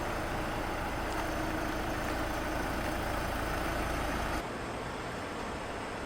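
Steady motor-vehicle engine and road noise, which cuts off suddenly about four seconds in to a steady, even hiss.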